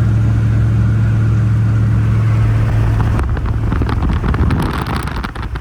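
Duramax V8 turbo-diesel pickup running with a steady, loud hum. About three seconds in, the hum gives way to a quieter stretch of rapid clicks and rustling.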